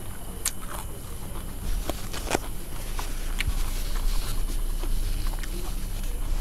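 Close-up chewing of crispy fried spring rolls, with a few sharp crunches and clicks scattered through, over a steady low hum.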